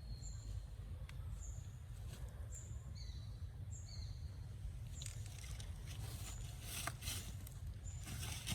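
Short high bird chirps, each falling slightly in pitch, repeating about once a second over a low rumble. A few sharp clicks come in during the second half.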